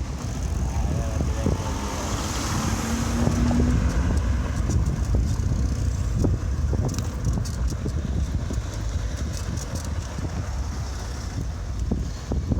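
Wind rumble on the microphone and the rolling noise of a moving bicycle, with frequent small rattling knocks. A louder swell with a steady hum comes up about two seconds in and fades by about four seconds.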